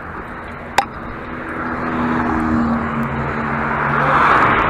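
A vehicle driving past, its noise swelling to a peak near the end while the engine tone drops in pitch, with a single sharp click about a second in.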